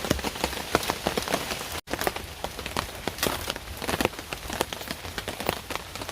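Heavy rain falling steadily, with many close raindrops striking a surface in sharp, irregular ticks. The sound cuts out for an instant about two seconds in.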